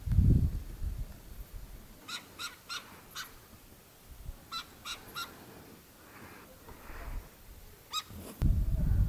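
A bird calling in short, harsh, repeated notes: a run of four quick calls, another run of four, then a single call. A low rumbling noise at the start and again near the end.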